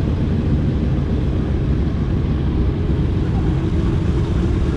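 Boeing B-17 Flying Fortress's four Wright R-1820 Cyclone radial engines running with a loud, steady low drone.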